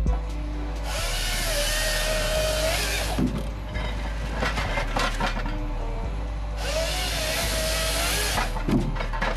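A forestry machine's hydraulic saw cutting through wood twice, each cut lasting about two seconds, with a whining tone in it, over the machine's steady engine drone. A knock follows each cut.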